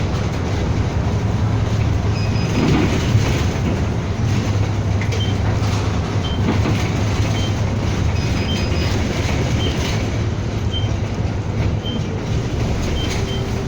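Inside a city bus under way: a steady low engine drone and road noise, with faint short high beeps now and then.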